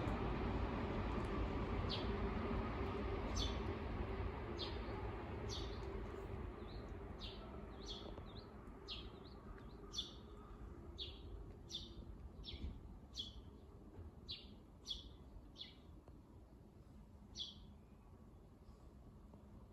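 A small bird chirping repeatedly outdoors, single short high notes about once a second, over a low rumble that fades out during the first half.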